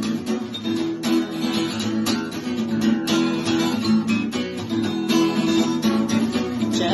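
Acoustic guitar strummed in a steady, driving rhythm, an instrumental break with no singing.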